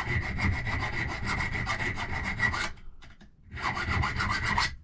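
Hand file working a brass key blank in fast, even strokes with a faint ringing squeal, cutting the key bit for a lever safe lock. The filing stops for about a second near the middle, then resumes.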